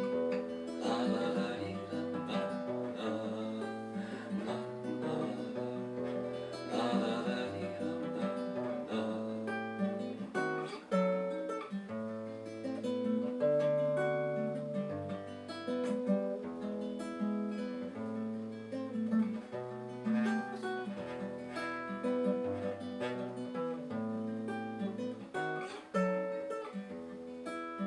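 Acoustic guitar playing an instrumental passage of a bard song, picked notes over a moving bass line with some strummed chords.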